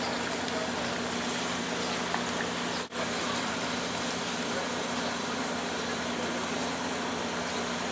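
Steady mechanical hum of an idling engine or motor under a constant hiss, broken by a brief dropout about three seconds in.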